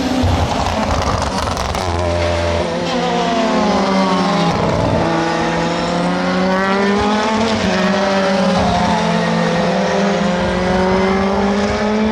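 Several Super GT race cars running at full throttle. Their engine notes overlap, one drops in pitch as a car passes by about four or five seconds in, and the others climb steadily as the cars accelerate.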